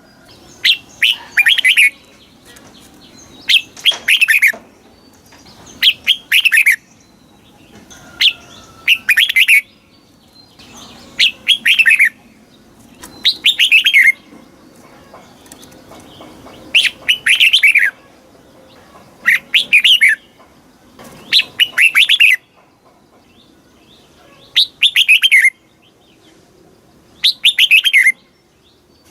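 Red-whiskered bulbul singing: short, bright phrases of quick falling notes, repeated about every two seconds.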